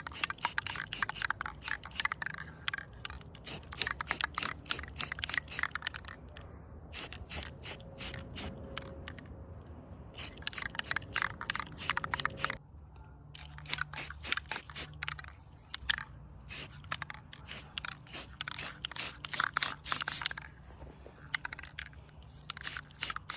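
Aerosol spray paint can in use: the mixing ball rattles rapidly in repeated bursts, with a few short pauses, between stretches of spraying.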